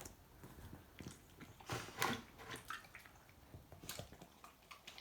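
Dog lapping water, a faint, irregular run of small laps and wet clicks.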